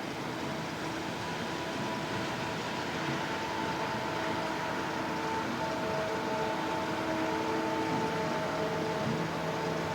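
A motor running steadily, with several humming tones over a hiss that shift slightly in pitch a few times.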